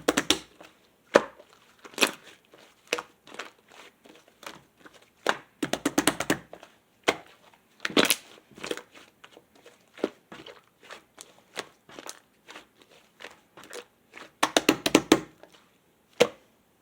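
Clay-mixed slime being squeezed and pressed by hand, giving sticky clicks and small pops that come in clusters, with a dense run of them near the end.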